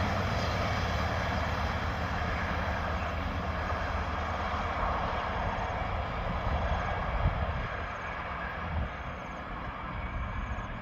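Diesel-hauled passenger train running away down the line, its engine rumble and wheel noise on the rails fading slowly.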